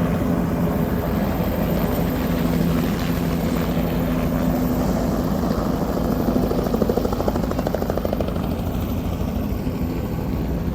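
Helicopter running close by: a fast, steady rotor beat under a constant engine hum.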